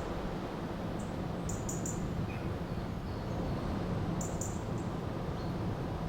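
River water running steadily, with birds giving short high chirps in small clusters, about a second in and again a little after four seconds.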